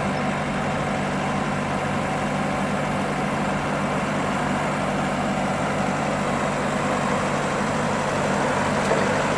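Nissan K21 LP-gas engine of a Cat cushion-tire forklift running steadily while its hydraulics raise the triple mast to full height.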